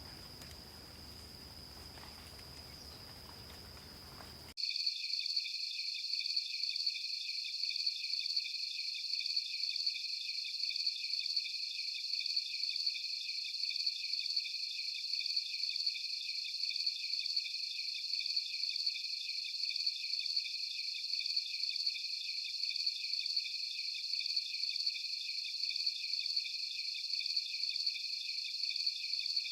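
Night-insect chorus. It starts as a faint forest ambience with one thin, steady, high insect tone. About four and a half seconds in, it cuts abruptly to a loud, high-pitched, rapidly pulsing chorus of several layered insect calls, with no low sound beneath.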